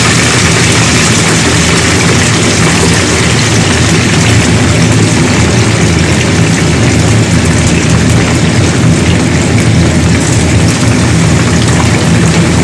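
Food sizzling steadily in hot oil, over a steady low hum.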